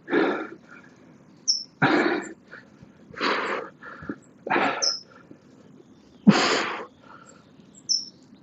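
A man's heavy, forceful breaths while he works through dumbbell presses, one about every second and a half. A bird chirps briefly three times in between.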